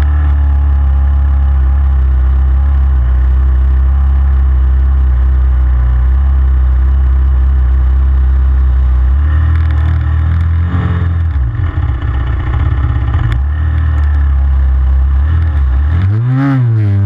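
Pit bike's single-cylinder four-stroke engine running hard at steady revs, then its pitch drops and climbs several times in the second half, with a quick rise and fall near the end as the throttle is worked.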